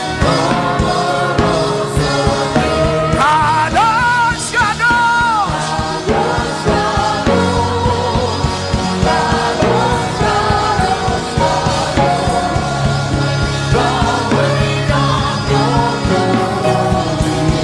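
Gospel worship song: a lead voice sings over a full band with drums, bass and keyboard chords.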